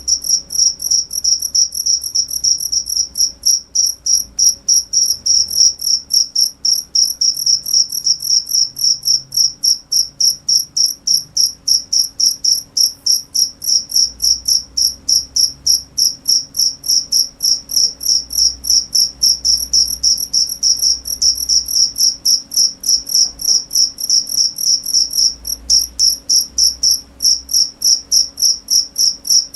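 Cricket chirping: a steady, fast train of high-pitched chirps, several a second, with a brief falter about 25 seconds in.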